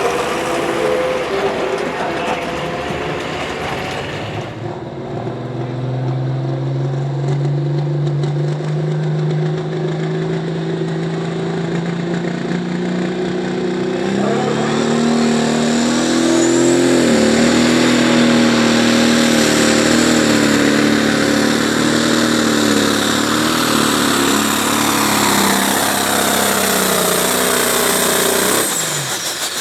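Pulling tractor's engine under full load: it climbs in pitch about six seconds in, rises again about halfway, holds high and loud, then cuts off sharply near the end as the pull finishes.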